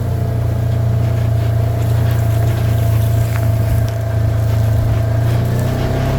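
An engine running steadily at an even speed, a constant low hum with a steady higher tone above it.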